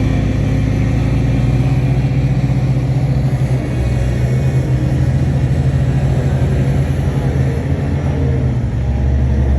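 Shantui crawler bulldozer's diesel engine running steadily and loudly.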